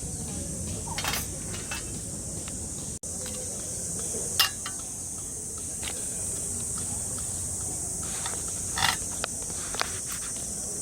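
Steady, high-pitched insect chorus, with a few scattered clicks and knocks, the sharpest about four and a half seconds in.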